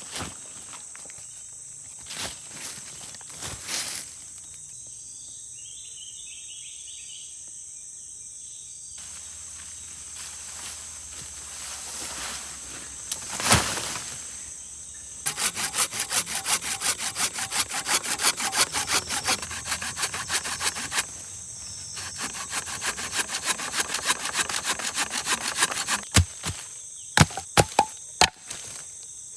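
Wood being cut with a hand saw in rapid back-and-forth strokes through the middle of the stretch, with a few separate knocks of wood before and sharp knocks near the end. A steady high insect drone runs underneath.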